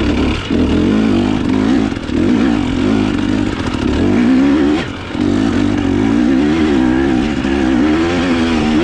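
Dirt bike engine working hard off-road, its pitch wavering up and down as the throttle is worked, with brief drops about two and five seconds in.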